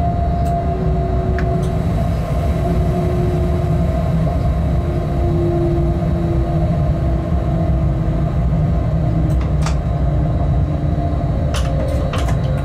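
Freight train locomotive running along the track, heard as a steady rumble from the cab with faint humming tones that drift slowly in pitch. A few sharp clicks come near the end.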